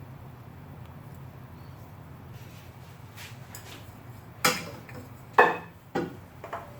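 Metal-on-metal clinks and knocks, four sharp hits about half a second to a second apart in the second half, over a low steady hum; metal parts and tools being handled while the oil filter is fitted.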